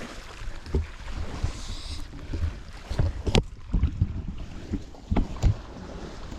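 Wind buffeting the microphone as a low, uneven rumble, with a few sharp knocks, the clearest about three and a half and five and a half seconds in.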